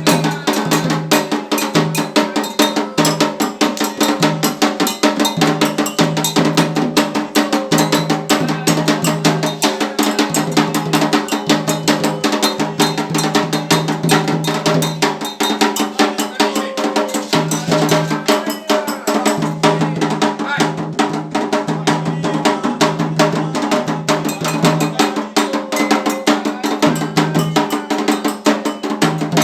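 Candomblé ritual percussion: atabaque hand drums with an agogô iron bell keeping a fast, steady rhythm, and voices singing over it.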